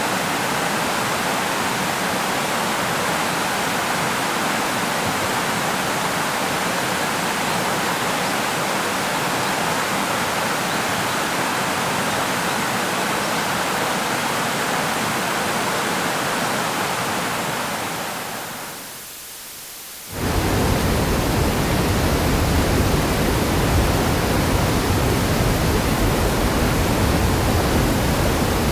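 River water flowing steadily, a continuous rushing sound. It fades out about 18 seconds in, and after a brief drop a second river recording starts abruptly, with a deeper, heavier rumble.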